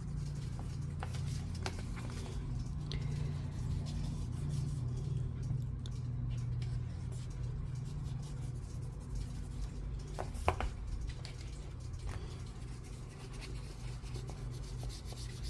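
Faint rubbing and small taps of a makeup brush working ink onto paper, with one sharper tap about ten seconds in, over a steady low hum.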